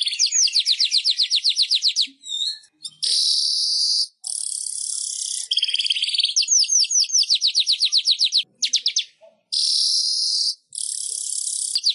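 Weaver bird (manyar) singing: loud buzzy, hissing phrases alternate with rapid trains of short rising chirps, about eight a second, broken by brief pauses.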